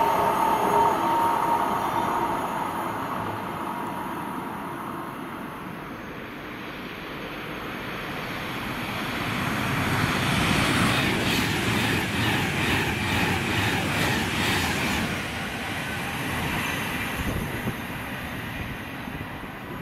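Train running through on the main line: the sound dies down, then a train draws near and passes with a quick regular beat of wheels over the rails, loudest in the middle, before fading again.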